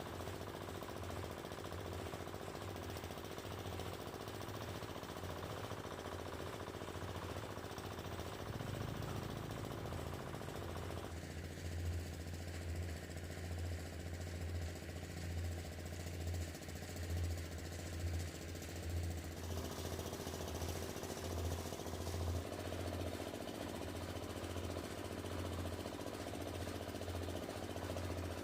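A small engine running steadily, with a low pulsing throb under a constant rattle and hiss.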